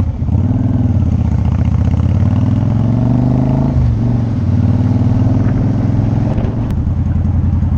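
Motorcycle engine running under way, heard from a helmet-mounted camera. Its pitch climbs, drops sharply about four seconds in, then holds and climbs again.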